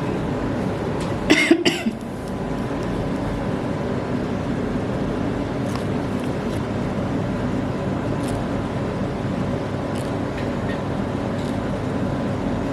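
A person coughs twice in quick succession just over a second in, over a steady background hum.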